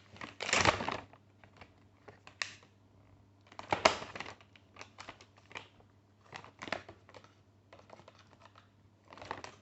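Irregular rustles and clicks from handling food packaging and utensils while making a sandwich, two louder ones about half a second in and about four seconds in, over a low steady hum.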